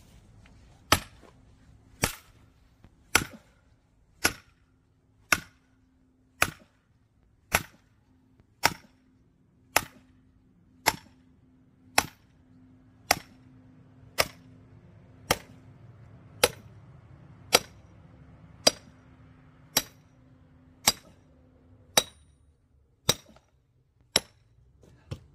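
Hammer blows on a steel splitting wedge driven into a firewood log: sharp, ringing strikes at an even pace of about one a second.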